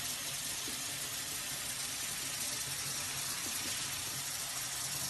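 Steady hiss of running water, as when a puppy is being bathed under the tap.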